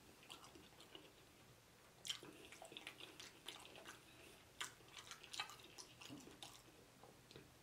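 Faint wet chewing with small mouth clicks and smacks, scattered from about two seconds in; otherwise near silence.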